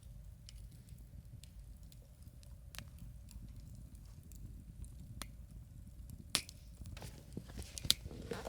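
Wood campfire crackling, with scattered sharp pops and a few louder ones near the end, over a low steady rumble.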